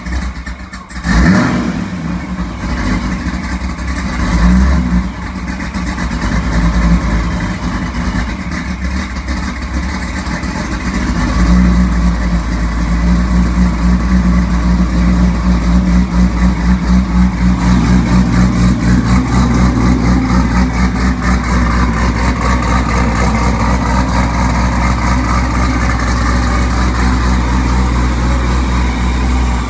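Supercharged 2003 Corvette C5 5.7-litre V8 with an aggressive 'jam cam' camshaft, running on its first start after the build. It is blipped up briefly about a second in and again around four to five seconds, then settles into a loud, loping idle that pulses evenly, the choppy rhythm of the big cam.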